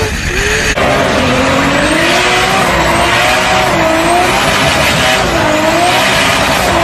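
High-powered turbocharged car engine running hard, its pitch rising and falling repeatedly every second or so over a loud rushing noise. The sound changes abruptly under a second in.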